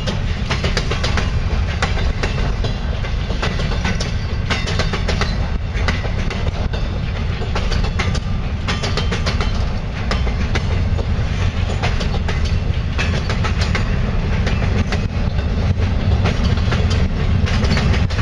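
Freight train boxcars rolling past close by: a steady low rumble from the wheels, with irregular clacking as they run over the rail joints.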